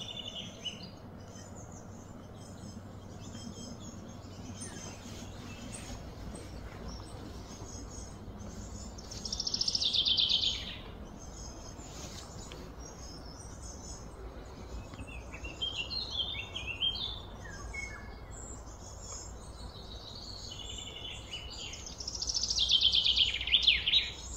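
Birds chirping and calling, with two louder fast trills about a second and a half long, one about ten seconds in and one near the end, over a steady low background rumble.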